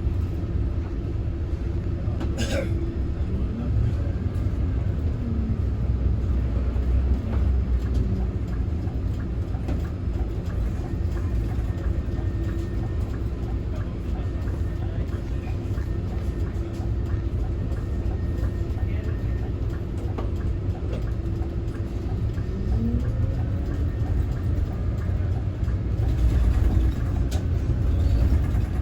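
Scania Citywide city bus driving, with a steady low rumble and a held mid-pitched whine. There is a sharp click about two seconds in.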